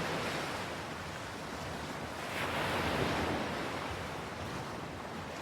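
Ocean waves washing on a shore in a soft, steady wash, one swell rising about halfway through and then receding.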